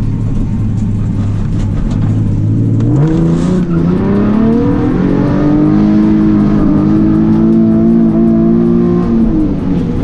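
Nissan 370Z Nismo's 3.7-litre V6 through a muffler-delete exhaust: a steady low drone at first, then about three seconds in the revs climb and hold higher for several seconds before falling back near the end.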